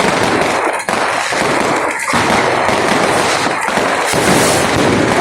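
Many fireworks and firecrackers going off at once, a dense, continuous barrage of overlapping bangs and crackles.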